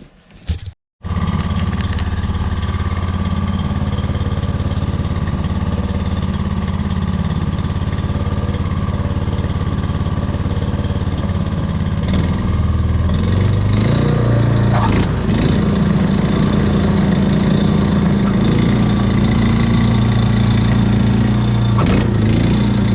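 Snowblower engine running steadily, starting abruptly about a second in. Its note shifts and settles about halfway through, with a couple of brief knocks.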